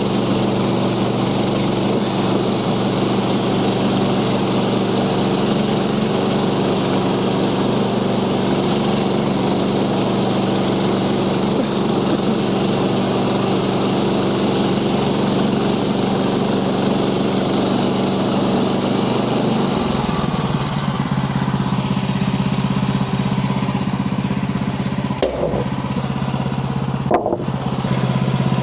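Small gas engine of a Woodland Mills HM130 Max portable sawmill running steadily, as when sawing through a log; about twenty seconds in its note changes and drops lower. Two short knocks come near the end.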